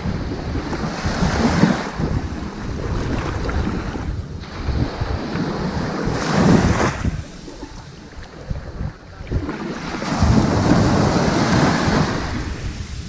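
Ocean waves breaking and washing up onto a sandy beach, a rushing hiss that swells and ebbs with each wave, about three surges with a quieter lull between the second and third.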